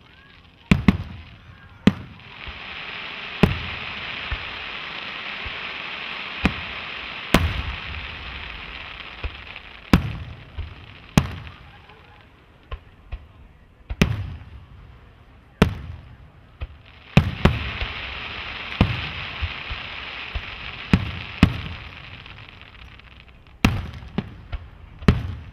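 Fireworks display: aerial shells bursting in about twenty sharp bangs, some in quick pairs, each with a low boom after it. A steady hiss swells up and fades away twice between the bangs.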